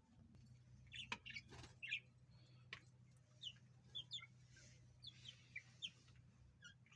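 Kept birds chirping faintly: a dozen or so short, high chirps, many falling in pitch, scattered irregularly, over a steady low hum.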